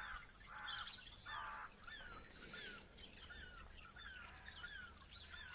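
Wild birds singing, faint: many short falling chirps repeated over and over, with a few brief buzzy calls among them.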